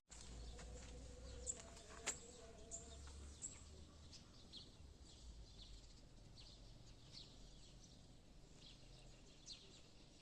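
Faint, scattered short bird chirps over a quiet outdoor background, with two small clicks about one and a half and two seconds in.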